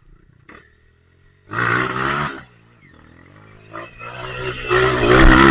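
Off-road dirt bike engine revving hard twice. The first short blip comes about a second and a half in. The second rev builds steadily and is loudest at the end.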